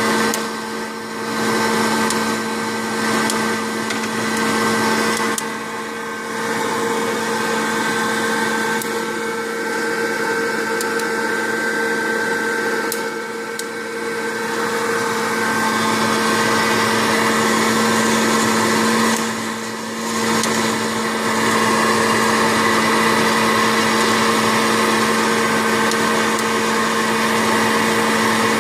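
Hot-air popcorn popper used as a coffee roaster, its fan motor running with a steady whirring hum and rush of air, dipping briefly in level a few times.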